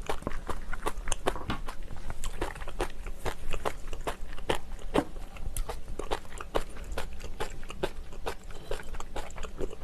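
Close-miked eating: a person chewing and biting food, with dense, irregular crunchy and wet clicking sounds.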